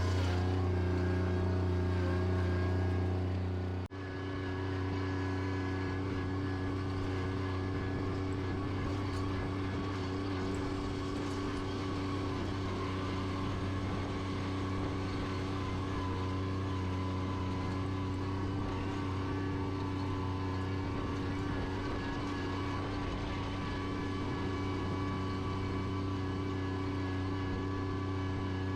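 Bobcat tractor engine running steadily at a constant speed. About four seconds in the sound cuts out for an instant, then carries on a little quieter.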